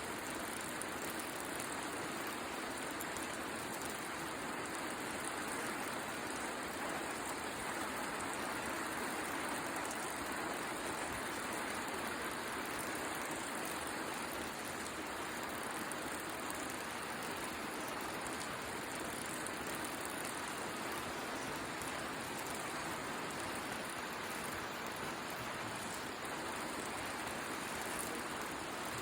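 Steady rain falling, with the occasional crackle of a wood fire.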